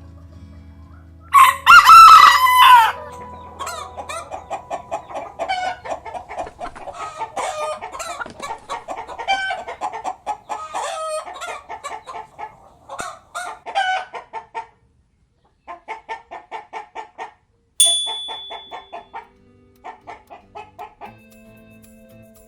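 A rooster crows once, loud, about a second in, followed by chickens clucking in long runs of quick short calls that break off and start again several times.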